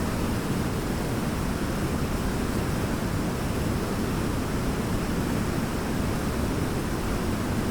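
Large waterfall roaring: a steady, unbroken rush of falling water, deep and heavy in the low end.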